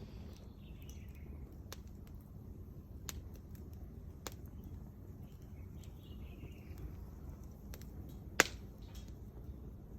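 Wood campfire crackling, with scattered sharp pops and one much louder pop about eight seconds in, over a low steady rumble.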